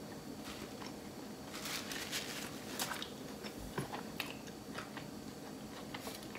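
A person chewing a mouthful of burrito, with scattered wet mouth clicks and smacks.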